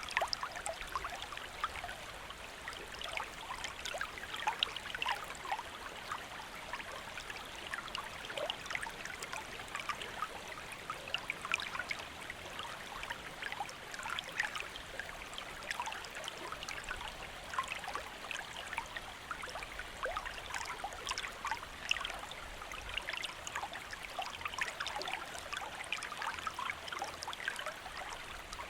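Gentle river or stream flowing, a steady babble of water with many small splashes and trickles.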